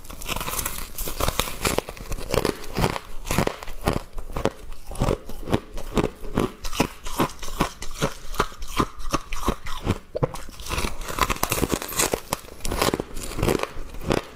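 Thin ice and fresh frost being bitten and chewed: a steady run of crisp, crackly crunches, several a second.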